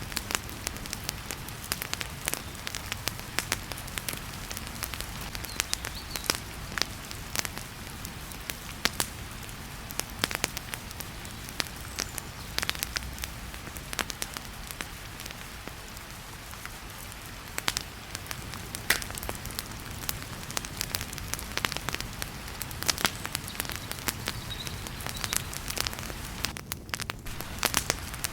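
Wood fire crackling with frequent sharp, irregular pops over the steady hiss of heavy rain.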